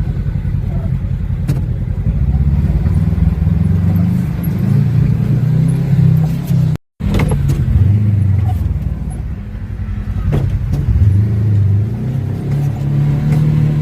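Off-road vehicle engine running while driving a trail, its pitch rising and falling with the throttle. The sound cuts out completely for a moment about seven seconds in, then resumes.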